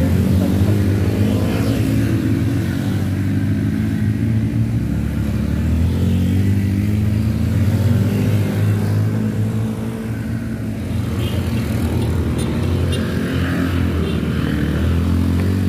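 Motorcycle engine running hard at heavy throttle, pulling up a steep slope, heard from the bike itself. Its note is steady, easing slightly about ten seconds in.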